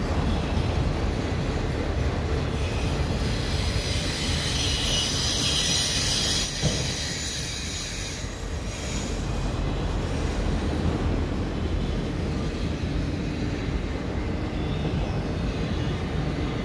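Freight train's autorack cars rolling past, a steady rumble of steel wheels on rail. A higher hiss rides over it from about three to nine seconds in, with one sharp clank about six and a half seconds in.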